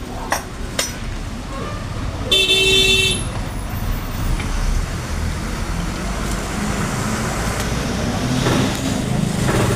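Road traffic noise, with a vehicle horn sounding once for just under a second about two seconds in. Two sharp clicks come just before it.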